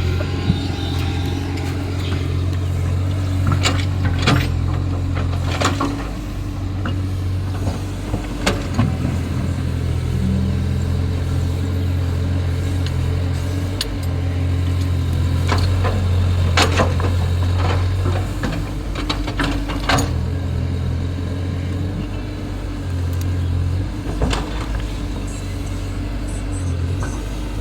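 Caterpillar excavator's diesel engine running steadily, with scattered sharp knocks and clanks.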